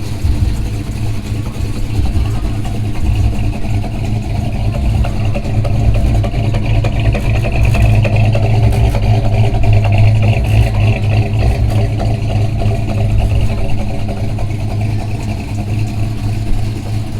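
Car engine running with a deep, steady rumble, getting a little louder midway through.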